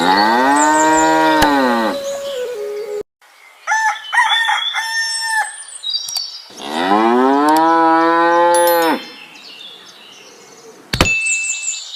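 Cattle mooing: two long moos of about two seconds each, the pitch rising and then falling, with shorter broken calls between them.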